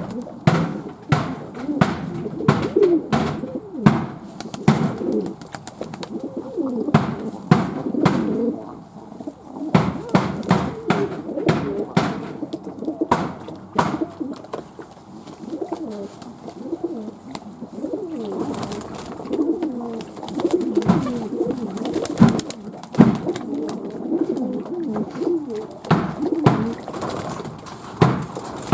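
Fantail doves cooing continuously, several birds overlapping, with many sharp knocks and clicks scattered throughout.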